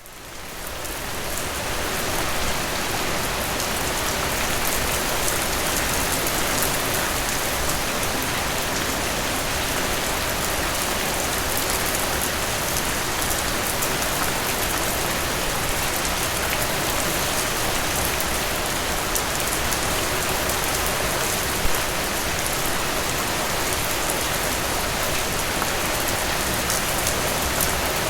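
Steady rainfall with many small drop impacts on surfaces, fading in over the first couple of seconds and then holding even.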